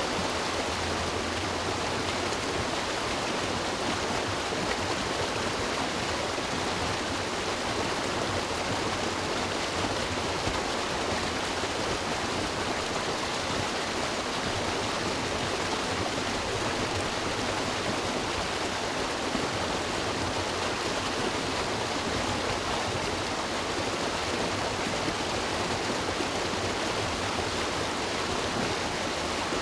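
River water rushing steadily over rocks, a constant full hiss with no breaks.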